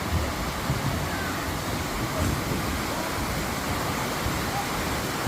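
Mountain valley stream running high after rain: a steady rush of water.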